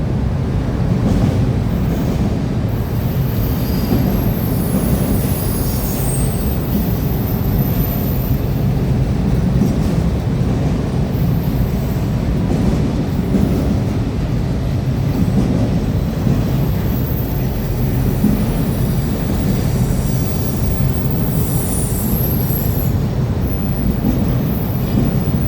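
Freight train cars rolling past with a steady heavy rumble, and thin high-pitched wheel squeals that come and go, near the start, a few seconds in, and again near the end.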